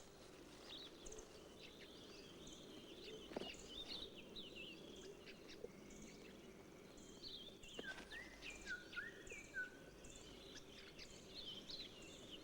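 Faint forest ambience with several birds calling: many short chirps and quick whistled glides, with a run of short rising notes about eight seconds in.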